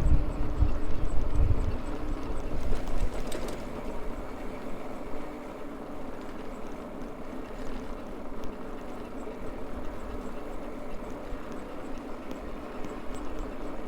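Maxtron Mule folding e-bike under way: the electric motor runs with a steady whine over tyre rolling noise. Wind buffets the microphone with a low rumble in the first two seconds, then dies down.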